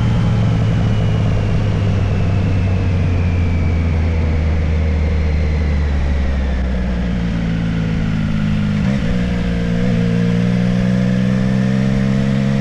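Motorcycle engine running while riding, its note falling slowly as it slows, with two brief breaks in the note about nine and ten seconds in before it holds steady, over a steady rushing noise.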